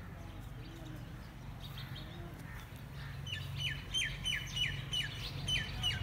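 A bird calling a fast run of repeated high notes, each dropping sharply in pitch, about three a second, starting about halfway through; fainter scattered chirps come before it.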